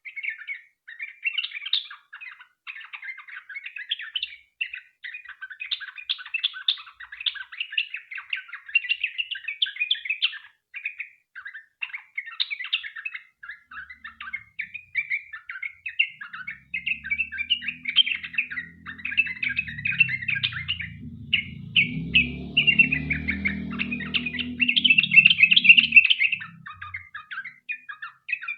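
Yellow-vented bulbul (trucukan) singing a long run of fast, chattering notes with hardly a break. A low rumble comes in about halfway through and fades out a few seconds before the end.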